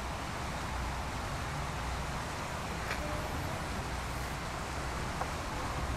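Steady outdoor background noise: a low rumble with a hiss above it, unchanging throughout.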